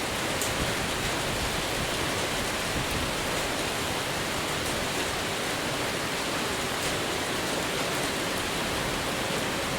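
A steady, even hiss with a few faint high ticks, unchanging in level.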